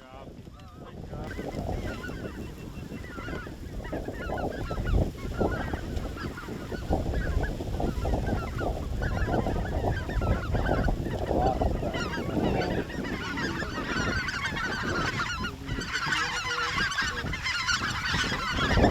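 A large flock of geese calling, many overlapping honks and yelps, growing denser and busier near the end.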